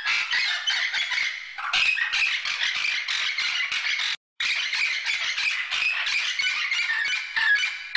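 White cockatoo screeching: harsh, rasping squawks in quick succession, with a brief break about four seconds in.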